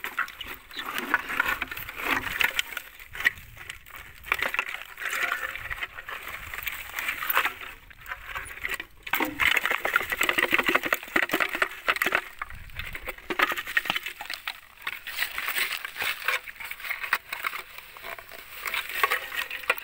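Dry brush and grass rustling and crackling as they are disturbed, with many small irregular snaps and ticks.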